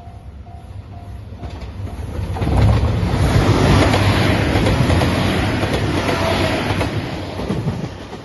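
JR Shikoku 2700 series diesel limited express train passing close by. Its loud rumble swells about two seconds in, holds for several seconds and fades near the end as it moves away. A level crossing bell rings steadily in the first second or so.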